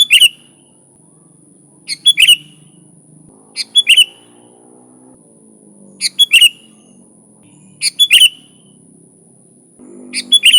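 Sooty-headed bulbul (kutilang) calling: a short burst of quick, bubbly notes repeated about every two seconds, six times. A faint steady high-pitched whine runs underneath.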